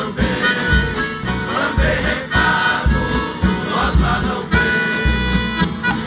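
Live Brazilian country (caipira) folk music played by an orchestra, with a steady bass beat under a melody.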